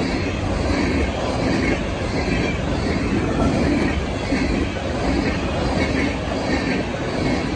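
Herzog ballast train cars rolling past at speed: a steady rumble of steel wheels on the rails.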